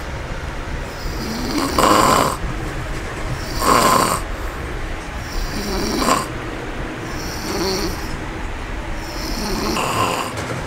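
Dog snoring in its sleep, about five snores roughly two seconds apart.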